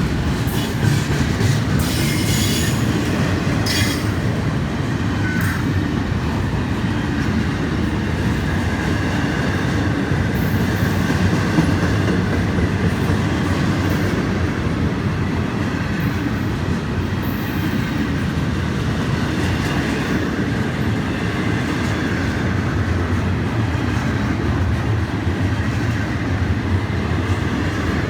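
Florida East Coast Railway intermodal freight train of container and trailer cars rolling steadily past, a continuous rumble of wheels on rail. There are several sharp clacks in the first few seconds and a faint high wheel squeal throughout.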